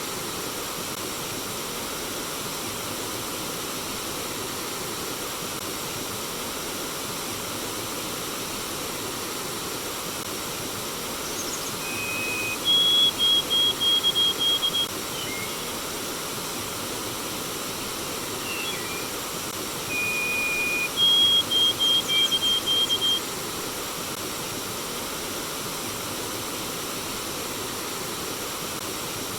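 Stream water flowing with a steady rush. A bird sings twice over it, each phrase a held whistle followed by a quick run of repeated higher notes.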